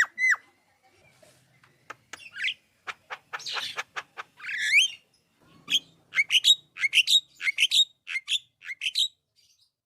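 Javan myna (jalak kebo) singing a varied song. It opens with arched whistles, moves into sharp clicks and harsh notes with a rising whistle, and near the end gives a quick run of rising notes, about three a second.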